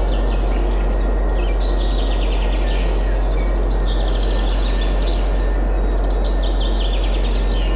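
Steady wind noise with a deep rumble, and several small birds chirping and trilling over it, the trills densest about a third and three-quarters of the way through.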